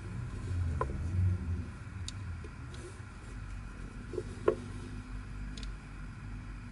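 Plastic twisty-puzzle pieces being handled during disassembly: a few separate sharp clicks and clacks, the loudest about four and a half seconds in, over a low steady rumble.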